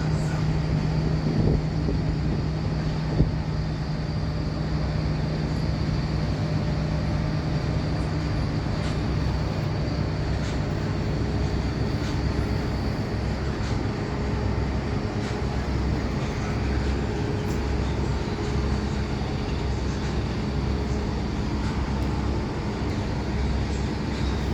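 Steady mechanical rumble with a low hum that fades about four seconds in, and a single sharp knock just after three seconds.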